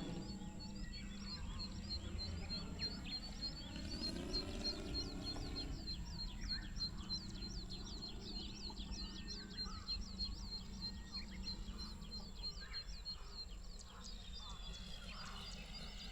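A bird chirps rapidly and steadily, short high notes about four a second, stopping near the end. Under it the faint hum of the model airplane's Saito FG60-R3 gasoline engine drifts in the distance and fades out.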